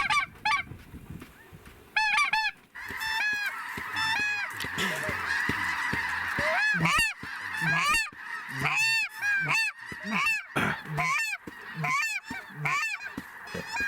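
Snow geese calling in large numbers: many short, high honks overlapping one after another, over a dense, steady chorus of a huge distant flock that swells in about three seconds in.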